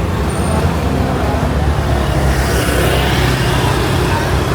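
Road traffic going by: a steady, loud low engine rumble.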